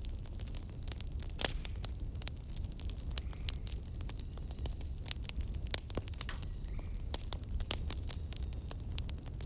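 Fire burning in a fireplace and crackling, with frequent sharp pops and snaps over a steady low rumble.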